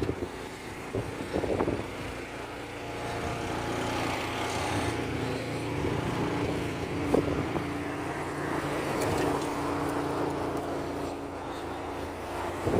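Road traffic: a motor vehicle's engine humming steadily, growing louder through the middle and easing off near the end.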